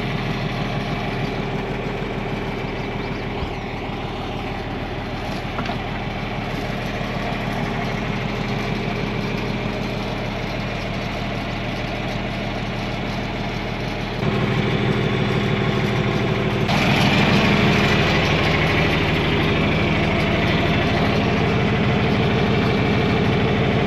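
John Deere 4000 tractor engine idling steadily at an unchanging speed; it becomes noticeably louder partway through.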